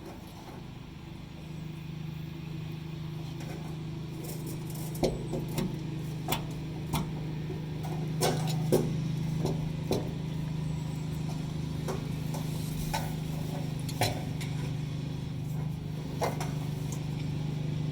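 A steady low hum, with scattered light clicks and knocks from about five seconds in as the fuel pump parts are handled and pressed into place.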